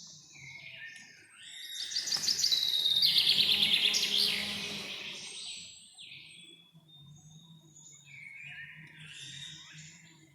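Forest birds singing and chirping. About two seconds in, one bird gives a loud, rapid trilling song lasting about three seconds, over scattered quieter chirps and whistles from other birds.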